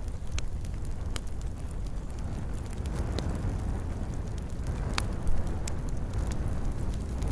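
Wood campfire burning: a steady low rumble of the flames with scattered sharp crackles and pops, one louder pop about five seconds in.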